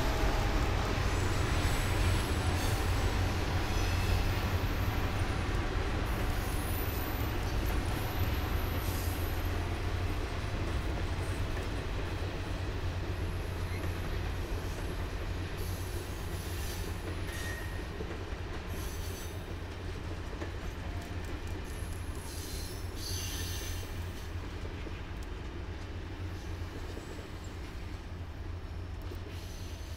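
Canadian Pacific Holiday Train's cars rolling past with a steady rumble and intermittent high-pitched wheel squeals, fading away as the last cars go by.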